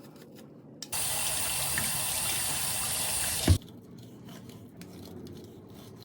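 A tap running water over a washing-machine drain filter as it is rinsed: a steady rush starting about a second in and stopping after about three seconds with a knock. Faint rubbing follows.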